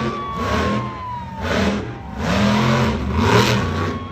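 Monster truck engine revving hard in repeated bursts, about one a second.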